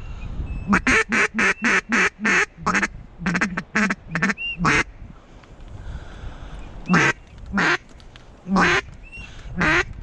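Loud mallard hen quacks, first in quick runs of five or six, then single quacks spaced about a second apart, with a few short high whistled notes between them.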